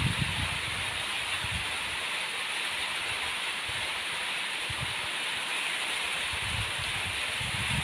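Steady rain falling on the yard, an even hiss, with a few low rumbles near the start and end.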